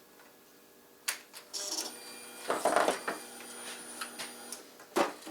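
Clicks and a short mechanical whir with a faint steady whine from a Suzuki GSX-R motorcycle being switched on and cranked on a flat battery that is being jumped.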